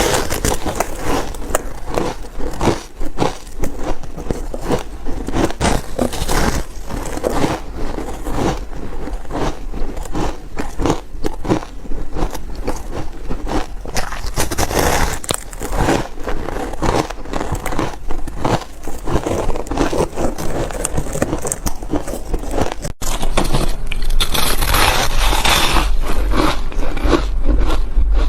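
Ice being bitten and chewed close to the microphone: dense, irregular crunching and crackling. About three-quarters of the way through, an edit jumps to louder, brighter crunching.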